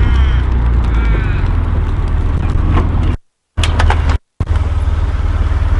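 A car engine idling with a steady low rumble, while a bird calls twice in the first second or so. The sound drops out completely twice, briefly, a little past halfway.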